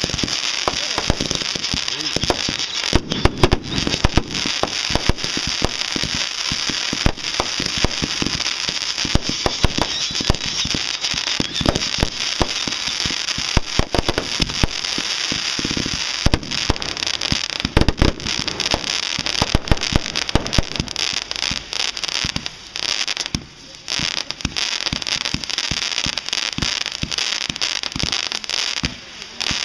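Aerial fireworks going off in quick succession: many sharp booms and bursts over dense, continuous crackling, with a brief lull about three-quarters of the way through.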